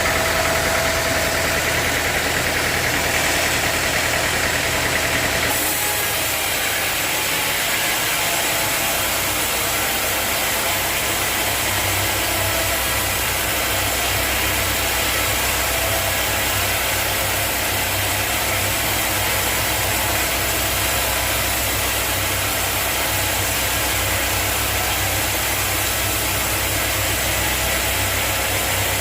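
Sawmill machinery running with a steady mechanical drone. About five seconds in the sound changes: a higher whine drops away and a steadier low hum carries on.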